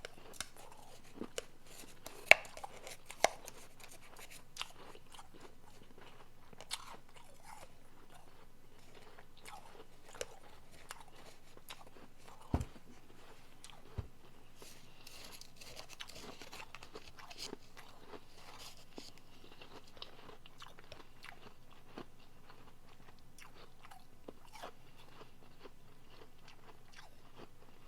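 Close-up crunching and chewing of soft refrozen powdery blender ice: irregular crackles and snaps, with the sharpest, loudest cracks in the first few seconds, then quieter and sparser chewing.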